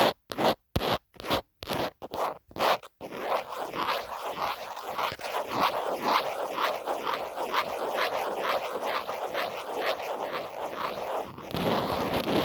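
Scratching on a phone case. For the first three seconds it comes as separate quick strokes, about three a second, then it turns into fast, continuous scratching.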